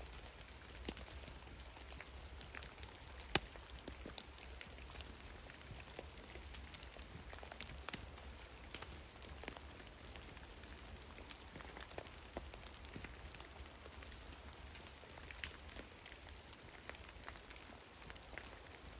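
Meltwater drops from heavy melting snow falling in a forest, landing as irregular scattered ticks and taps over a faint steady hiss. The loudest drop lands about three and a half seconds in.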